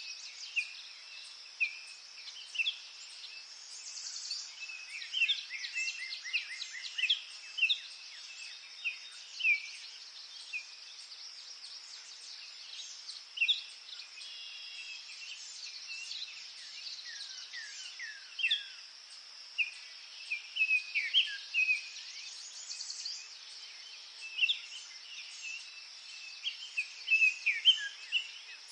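Forest ambience: several birds singing, with many short chirps, trills and quick downward-sweeping notes, over a steady high hiss.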